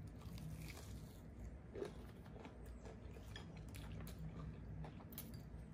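Close-up chewing of a bite of crispy fried fish, with faint crunches and mouth clicks scattered throughout, over a low steady hum.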